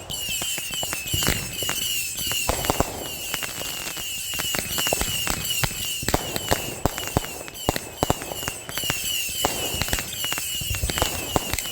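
Consumer fireworks from a one-fuse chained show going off: a dense run of bangs and crackling pops, with a short high chirp repeating about three times a second behind them.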